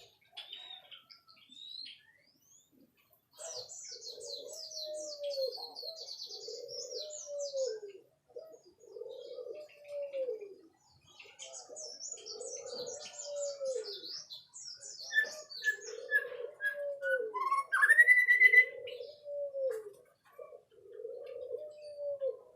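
White-rumped shama singing: bursts of high, fast chirps and trills, with a loud rising whistle about three-quarters of the way through. Under it, a low cooing note repeats steadily about every second and a half.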